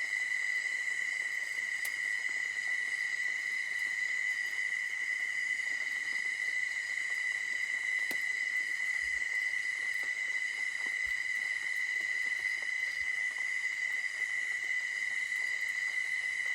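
Night insects, crickets, singing in a steady, unbroken high-pitched chorus, with a few faint ticks scattered through it.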